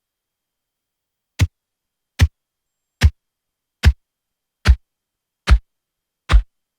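Short electronic thumps like a kick drum, repeated evenly about every 0.8 seconds, six times from about a second and a half in, with dead silence between them.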